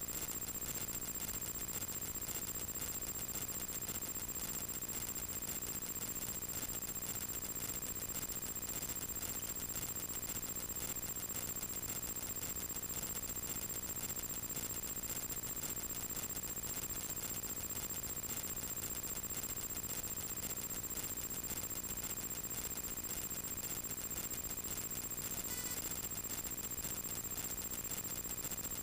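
Light Cessna's piston engine running at low taxi power, a steady hum with hiss, heard through the cockpit intercom recording with a constant high-pitched electrical whine over it.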